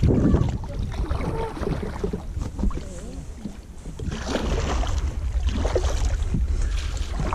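Wind rumbling on the microphone, with water splashing now and then from kayak paddle strokes.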